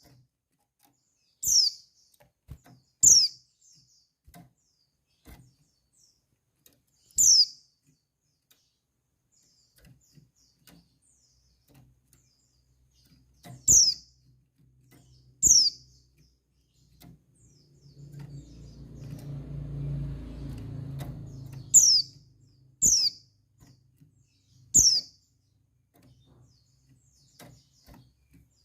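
Female buxtoni white-eye (pleci) giving its call to males: about eight short, high notes that drop in pitch, spaced unevenly a second or several apart. A low hum swells and fades midway.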